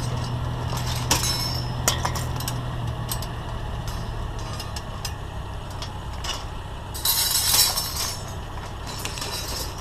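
Pieces of metal wire shelving clinking and rattling against each other as they are sorted, with sharp clinks about one and two seconds in and a longer scraping rattle around seven to eight seconds in. A vehicle engine idles steadily underneath, fading after the first few seconds.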